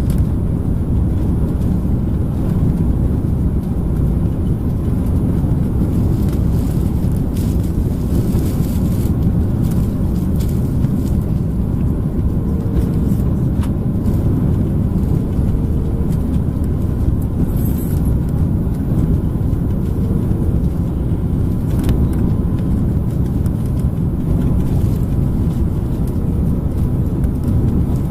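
Steady low rumble of cabin noise inside an Airbus A330-300 airliner, from its engines and the air around it, with a few faint ticks.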